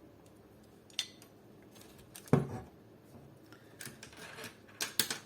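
A few scattered sharp metallic clicks and knocks from hand tools and parts being handled on an airsoft AK during a hop-up installation. The loudest is a heavier knock a little past two seconds in.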